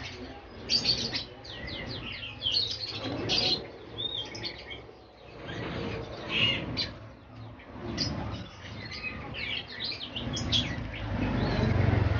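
Many caged songbirds chirping and whistling at once, a dense chorus of short, overlapping calls with a few louder bursts.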